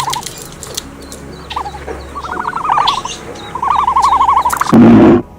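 Bird giving repeated rapid warbling trills, each about a second long. Near the end comes a short, loud, rough burst of noise that cuts off suddenly.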